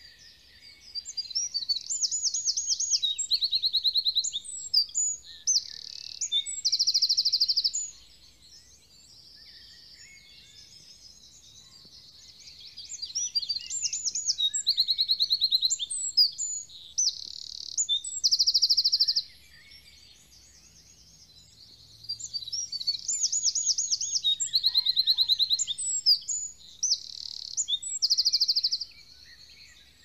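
A songbird sings three long, high-pitched song phrases, each several seconds of rapid trills and repeated notes, with pauses of a few seconds between them.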